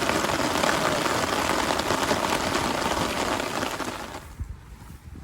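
Heavy rain, a dense steady hiss, cut off abruptly about four seconds in, leaving a quieter low rumble.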